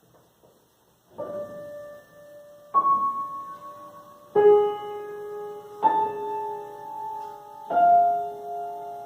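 Piano playing a slow melody: five notes struck about a second and a half apart, each left ringing.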